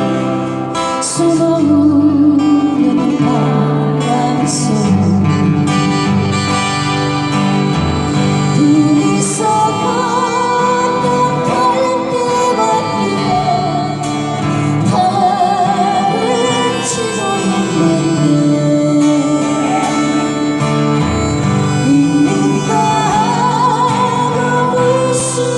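Folk trio performing a ballad: singing with acoustic guitar accompaniment.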